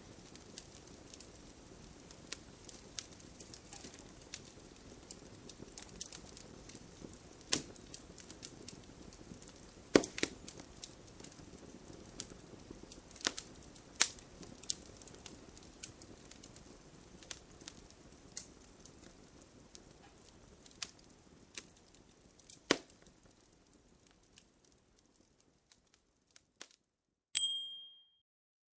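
Wood fire crackling in a fireplace, with scattered sharp pops, fading out near the end. Then a single short chime rings, the Pomodoro timer signal for the break.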